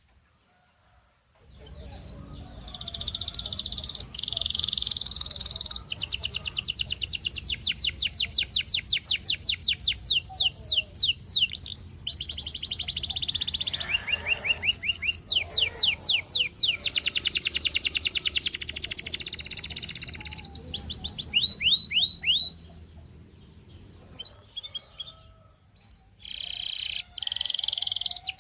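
Russian singing canary in song: long, fast trills of rapidly repeated notes. The song starts after a brief silence and eases into a quieter lull about three-quarters through before picking up again. A low background hum runs beneath it.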